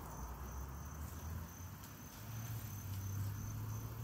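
Crickets chirping steadily in the background, a thin high-pitched trill, with a low hum that comes up about halfway through.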